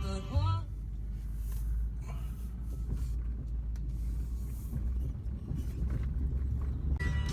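Ranch feed truck driving along, a steady low engine and road rumble.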